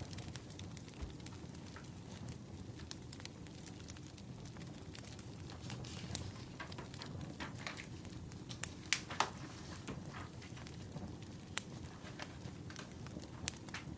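Firewood burning, crackling with irregular sharp pops over a steady low rush, with a few louder pops about two thirds of the way in.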